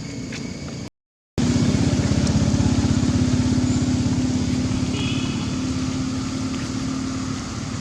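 A motor vehicle engine running close by. It comes in loud and abruptly just after a brief silence about a second in, then slowly fades.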